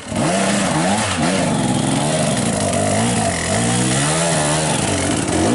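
Motocross dirt bike engine, close by, revving up and down repeatedly with the throttle worked hard.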